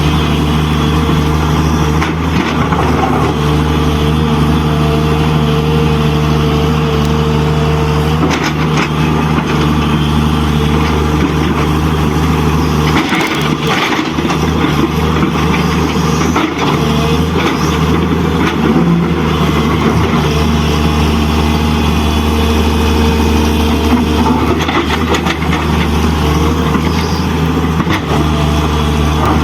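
Diesel truck engine sound running steadily at a low, even pitch, with a brief dip about 13 seconds in.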